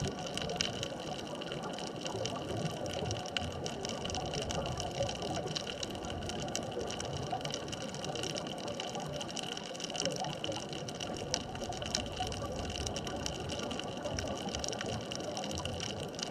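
Underwater ambient noise at a sunken bridge-span reef: a steady hiss sprinkled with many faint crackling clicks, with a few steady faint hums under it.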